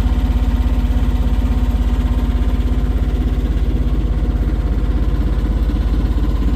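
A boat engine running steadily at low speed with a fast, even throb.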